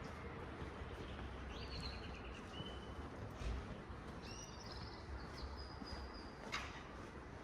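Quiet town-street ambience: a steady low background hum of distant traffic and city noise, with small birds giving short runs of rapid high chirps, once about a second and a half in and again around the middle.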